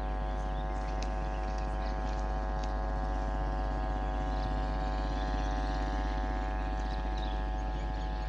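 A steady machine hum made of many even tones over a deep rumble, unchanging throughout, with faint short ticks above it.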